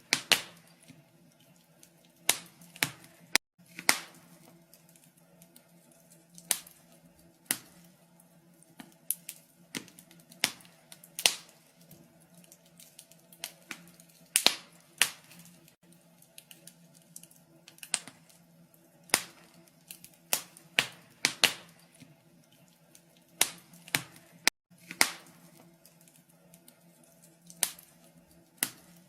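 Wood fire crackling in a fireplace: irregular sharp pops and snaps, roughly one or two a second, some much louder than others, over a faint steady low hum.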